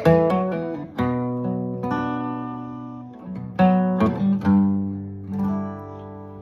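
Acoustic guitar playing a slow instrumental intro: chords strummed and left to ring out, a new chord struck every second or so.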